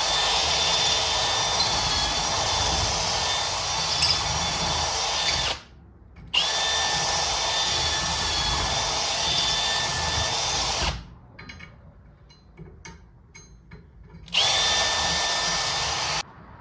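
Electric drill boring out holes in a bracket, run in three bursts: a steady whine that spins up at the start of each run, with short pauses and a few light clicks between.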